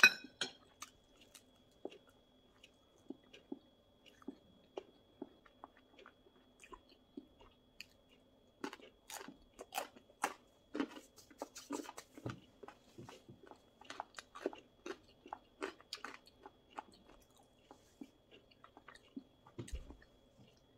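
Close-miked chewing and biting of pizza crust: wet mouth clicks and small crunches that come thickest about halfway through, with a soft low thump near the end.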